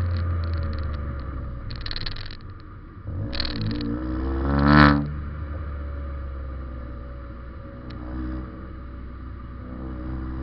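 Ford Fiesta Zetec S EcoBoost engine running through a Cobra cat-back performance exhaust, heard from the car's rear while driving. The note rises once to a peak about five seconds in, then drops back to a lower steady drone.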